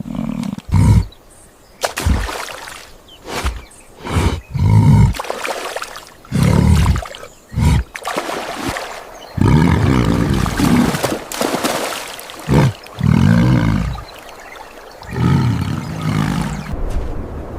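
A large wild animal giving a series of deep roars, about a dozen calls, some short and some lasting a second or two.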